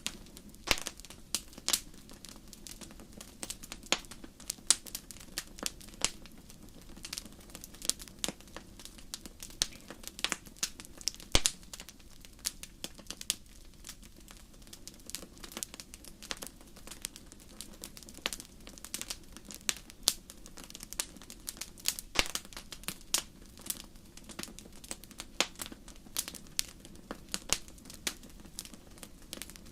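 Wood fire in a fireplace crackling: irregular sharp pops and snaps, several a second and varying in strength, over a steady low background of the burning fire.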